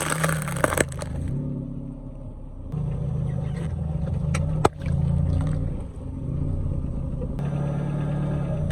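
Car engine running at low speed with a steady low hum, a burst of crackling in the first second and one sharp snap about halfway through.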